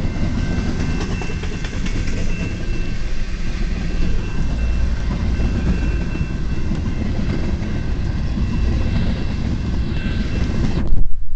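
Cars of a CN mixed freight train rolling past: a steady rumble of wheels on rail with faint, thin squealing tones above it. Near the end the high sound cuts off abruptly and a louder, muffled low rumble takes over.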